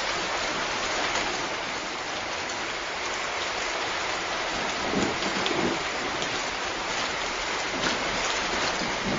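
Steady rain falling on a surface, an even hiss with scattered louder drop ticks, and a brief low swell about halfway through.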